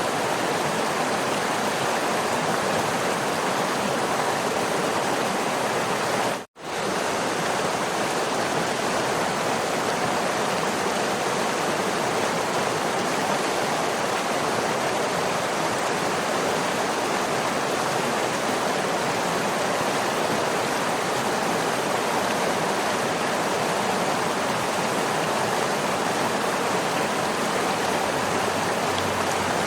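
Waterfall: a steady, even rush of falling water, broken by a split-second gap of silence about six and a half seconds in.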